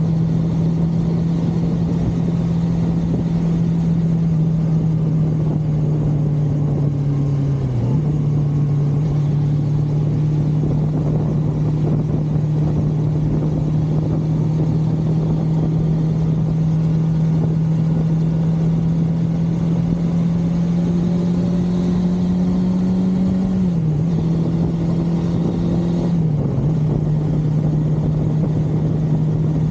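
1982 Suzuki GS550L's air-cooled inline-four engine running at a steady cruise under wind rush. The engine note climbs slowly, and it dips sharply and briefly three times: about eight seconds in, and twice near the end.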